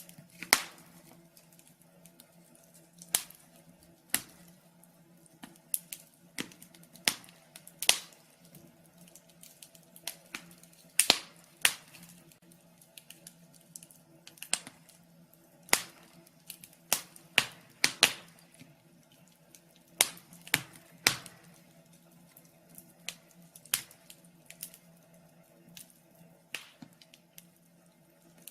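Wood fire crackling: irregular sharp pops and snaps, a few of them loud, over a faint steady low hum.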